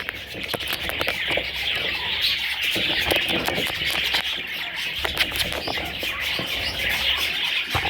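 A group of budgerigars chattering and chirping continuously in a dense warble, with scattered short clicks mixed in.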